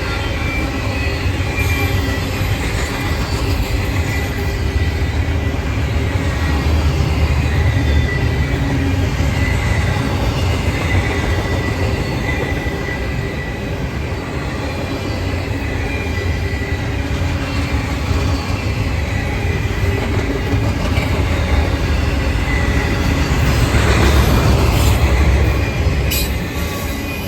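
Freight train of intermodal cars rolling past: a steady low rumble of steel wheels on rail, with a thin high wheel squeal coming and going. The sound swells near the end, with a few sharp clicks.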